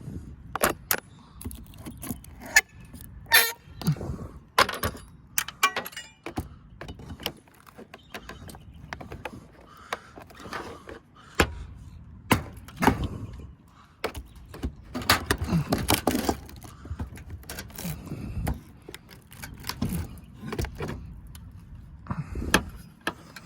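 A hand tool working nails out of old wood under metal roof flashing: irregular knocks, taps and scrapes, with a brief squeak about three seconds in.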